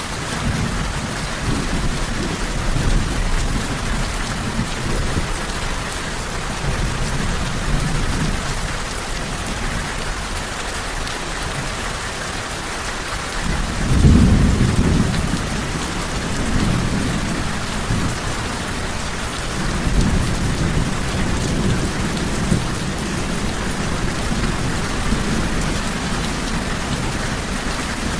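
Steady heavy rain with rolling thunder rumbling low underneath, the loudest roll swelling about halfway through.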